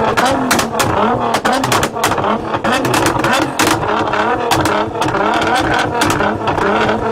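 Car with an Armytrix aftermarket exhaust being revved in quick blips, the engine note rising and falling over and over, with sharp crackles and pops from the exhaust throughout.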